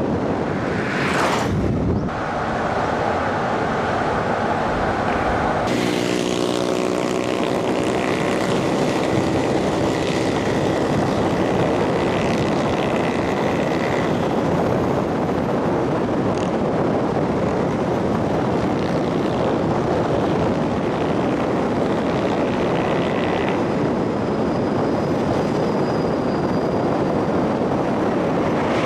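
Steady road and wind noise of a vehicle driving along a highway. A humming, pitched tone joins it for a few seconds about six seconds in.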